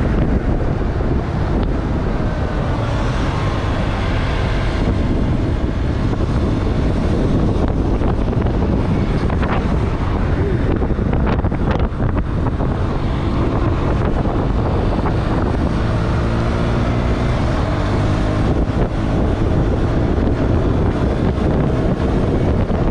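Steady heavy wind buffeting the microphone of a moving motorcycle, with the engine's running note faintly underneath.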